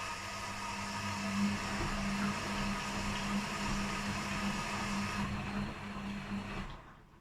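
Washing machines mid-cycle on a quick 30 °C program with blankets inside: a steady motor hum with drum and water noise. The noise thins about five seconds in, then the sound drops off sharply near the end.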